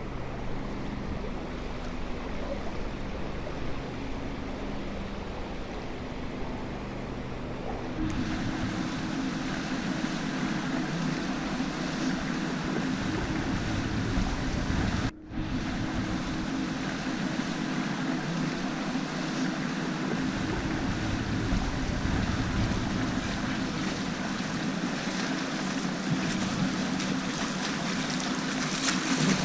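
River Nidd in flood, its fast water rushing steadily, with some wind on the microphone; the rush grows a little louder about a quarter of the way in.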